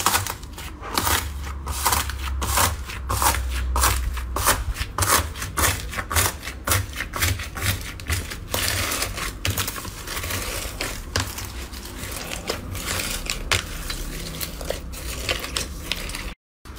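Slime being squeezed and poked by hand, a fast irregular run of crackling clicks and pops.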